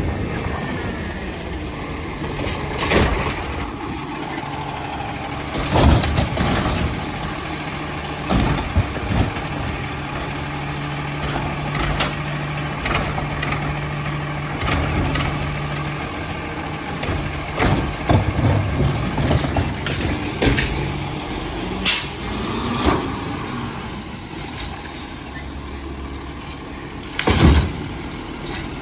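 2020 Autocar Expeditor garbage truck with a Bridgeport Ranger automated side-loader body working trash collection. Its diesel engine revs up and holds for about ten seconds in the middle to drive the hydraulics. Air-brake hisses and repeated clanks and bangs of the lifting arm and cans come throughout, the loudest bang near the end.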